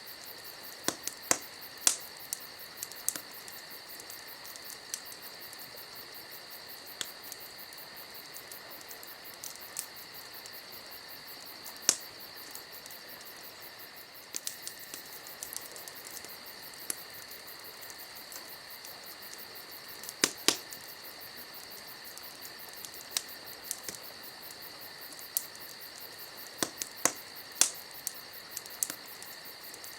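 Campfire crackling, with irregular sharp pops and snaps that cluster about a second in, near twenty seconds and near the end. Under them runs a steady, high insect chorus.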